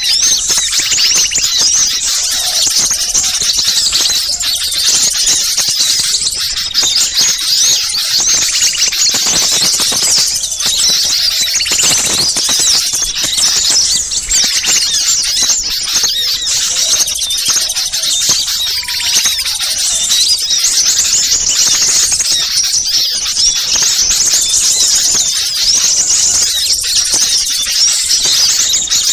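A dense, unbroken chorus of many small birds chirping and twittering at once, high-pitched: a lure recording of agitated small birds used to draw wild birds in.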